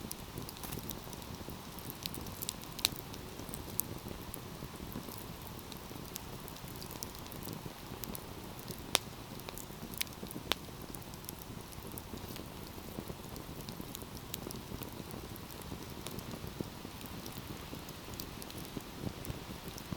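Wood fire burning with a steady low rush and scattered sharp crackles and pops, the loudest about three seconds in and again about nine seconds in.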